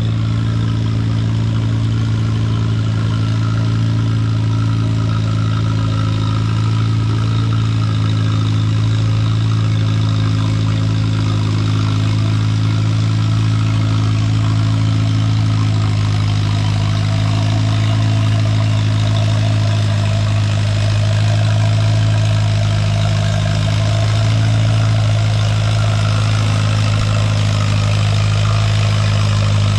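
Allis-Chalmers WD tractor engine running hard under load at steady revs, pulling the weight sled down the track.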